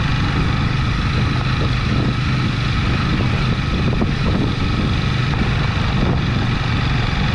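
Motorbike engine running steadily while riding along a dirt track, with wind on the microphone.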